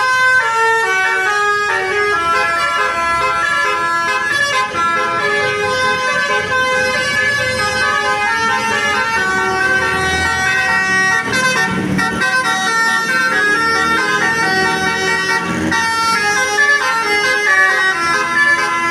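Bus's multi-tone musical horn playing a long stepping tune over the bus's engine, the horn notes changing pitch every fraction of a second.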